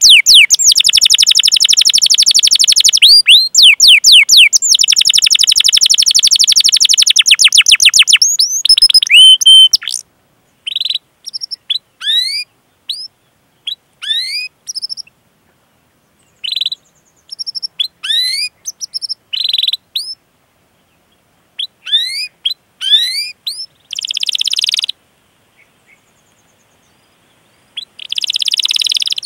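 Domestic canary singing: a long, fast rolling trill of rapidly repeated downward-sweeping notes for about ten seconds, then scattered short chirps and 'cuit cuit' calls separated by silent gaps, with a fast trill starting again near the end.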